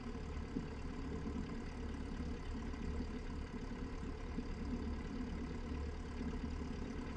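Cessna 172's piston engine running at low taxi power with the mixture leaned, a steady drone heard from inside the cockpit.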